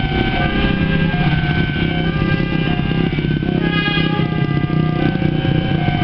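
Passenger train hauled by a CC 204 diesel-electric locomotive rolling into a station: a steady low rumble, with several high steady tones over it that shift in pitch now and then.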